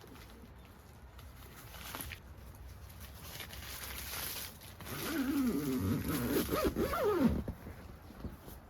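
A tent zipper being pulled, with a rasping sound that wavers up and down in pitch as the pull speeds and slows; it is loudest from about five seconds in for about two seconds.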